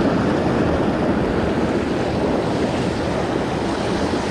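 Steady rushing of a mountain trout creek's flowing water, a loud even noise.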